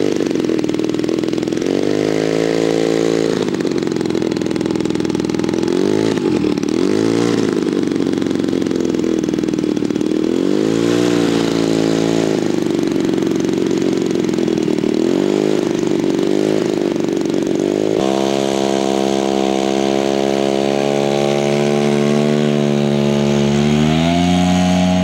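Radio-control model aircraft engine in flight, its pitch rising and falling over and over as the plane passes and changes throttle. About 18 seconds in, the sound changes abruptly to a steadier engine note, which rises in pitch near the end as it is throttled up.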